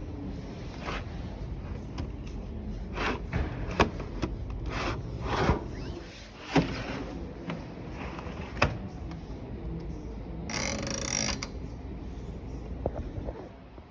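A series of sharp mechanical clicks and knocks, a few seconds apart, with a short hiss about ten and a half seconds in.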